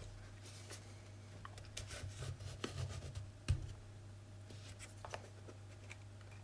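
Scattered plastic clicks, scrapes and rubbing of a small handheld multimeter's case being handled and taken apart, with one sharper knock about three and a half seconds in, over a steady low hum.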